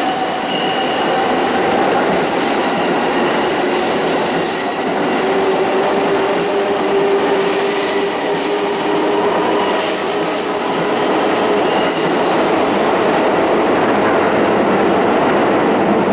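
JR East 255 series electric train pulling out of an underground station platform and running past, its wheels and motors sounding with a few steady whining tones over the rolling noise, echoing in the enclosed station. The highest hiss fades near the end as the last car goes by.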